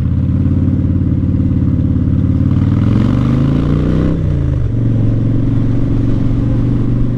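Motorcycle engine running as the bike rides along: the revs climb, drop back about four seconds in as it shifts gear, then hold steady. Wind rush rises briefly with the revs.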